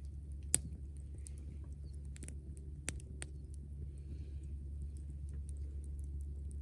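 Wood fire crackling, with a few sharp pops, the loudest about half a second in, over a steady low rumble.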